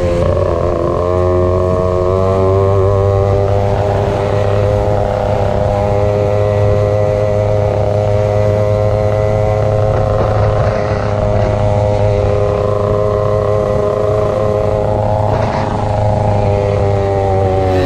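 Two-stroke motorcycle engines held at high revs, a steady buzzing drone with slight rises and falls in pitch and a brief rush of noise about fifteen seconds in.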